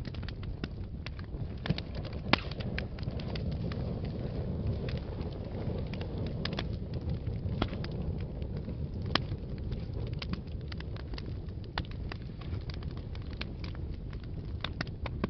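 Wood fire burning in a fireplace: a steady low rumble of flames with many irregular, sharp crackles and pops, the loudest about two seconds in.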